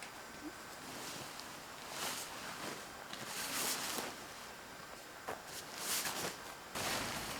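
Several bursts of rustling noise outdoors, with wind buffeting the microphone near the end.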